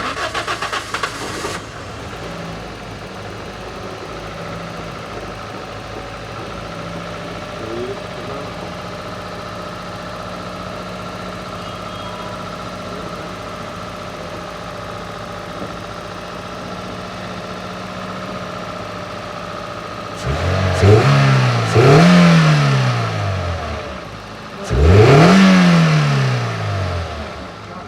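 Toyota Corolla XLi petrol engine running after a tappet adjustment: loud for the first second and a half, then idling steadily, then revved twice near the end, the pitch climbing and falling back each time. It sounds fit to the mechanics, no longer misfiring.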